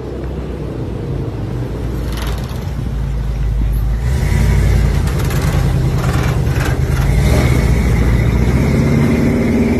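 Truck engine running and accelerating, growing louder over the first few seconds, with a steady high whine joining about four seconds in.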